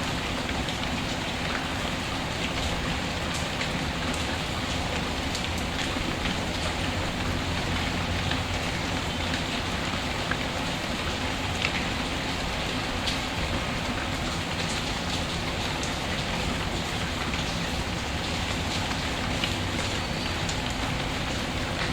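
Steady rain falling, with scattered small pops and crackles of a wood fire.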